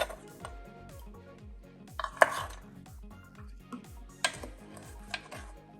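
Kitchen tray and utensils clattering as set chocolate nests are scooped out, with a few sharp clinks, the loudest about two seconds in. Soft background music plays underneath.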